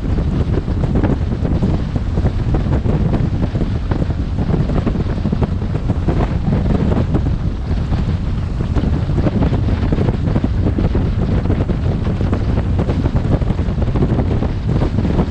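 Steady, loud wind noise buffeting a helmet-mounted camera's microphone on a moving motorcycle, a rumbling roar with no breaks.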